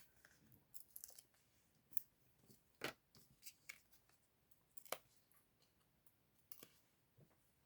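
Faint, irregular small clicks and ticks of paper-craft handling, as dimensionals are peeled and pressed onto a card piece, with two sharper taps about three and five seconds in.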